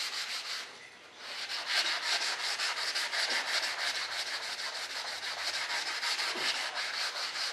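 220-grit sandpaper on a firm sanding block rubbing back and forth over a primed surface in quick, regular strokes, with a brief pause about a second in. The block is flattening a heavy primer coat and filler spots.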